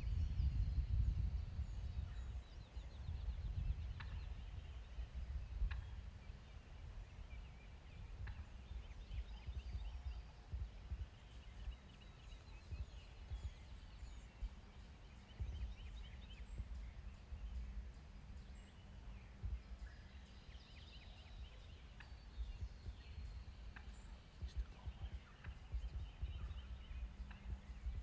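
Wind buffeting the microphone with a steady low rumble, and a wild turkey gobbling in the distance, its rattling gobbles faint under the wind, chiefly near the start and again past the middle.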